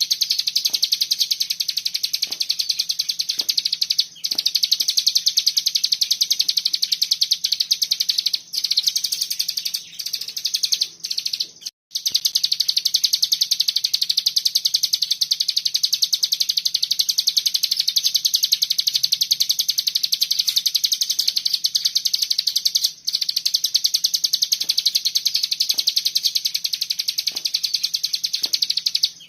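A cigun songbird singing a very rapid, unbroken trill in the 'ngebren' style, dense and high-pitched, broken only by a few short pauses about 4, 8, 10, 12 and 23 seconds in.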